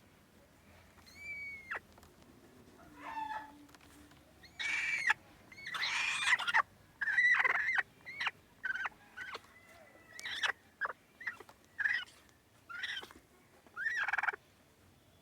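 Mother hen giving a string of short, harsh angry calls, about a dozen, loudest and raspiest around the middle.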